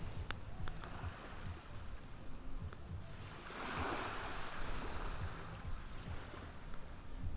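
Ocean waves washing onto a beach, with one wave swelling up and rushing in about halfway through, over a steady low rumble.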